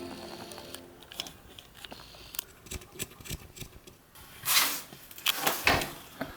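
Handling noise: scattered small clicks and ticks, with a few louder brief rustles or scrapes after about four and a half seconds, as an object is picked up and worked by hand.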